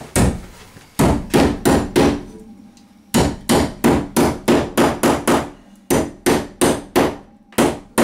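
Claw hammer striking a metal plumbing protector plate to drive it onto a wooden 2x4 stud: about twenty sharp metallic blows. A few spaced strikes come first, then a pause around two seconds in, then a steady run of about three blows a second.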